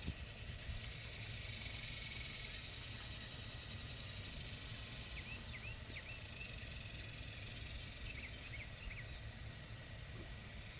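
Outdoor insect chorus: a high buzzing that swells and fades in waves every couple of seconds. A few short bird chirps come about halfway through, over a low rumble of wind-like noise.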